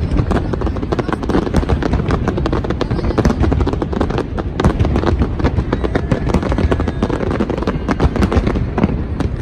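Fireworks display going off in a dense, continuous barrage of bangs and crackles with no pauses.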